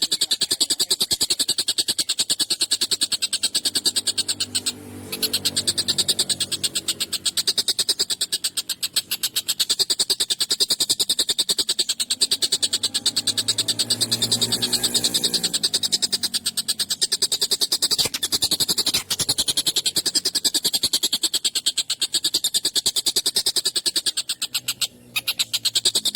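Kingfisher (tengkek buto) calling with a long, harsh, very fast rattling trill. It goes on almost without a break, with short pauses about five seconds in and near the end.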